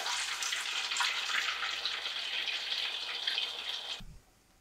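Breaded Dutch croquettes deep-frying in a saucepan of hot oil: a steady sizzle with crackling that cuts off suddenly about four seconds in.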